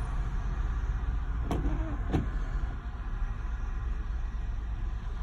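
Steady road and engine rumble of a moving car heard from inside the cabin, with two short clicks or knocks about two-thirds of a second apart near the middle.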